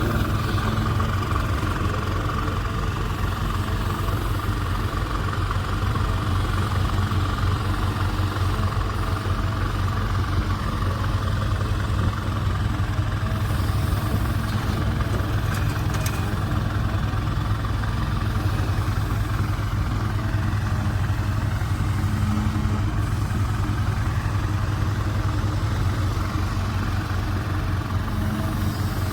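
Six-wheel dump truck's diesel engine idling steadily close by, with no revving.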